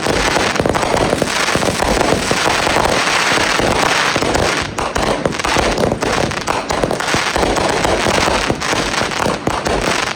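Consumer fireworks going off, a dense, continuous crackle of many rapid overlapping bangs and pops.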